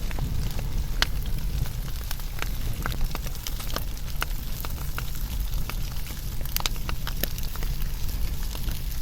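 Wood fire burning and crackling: irregular sharp pops and snaps, several a second, over a steady low rumble of the flames, with a louder pop about a second in.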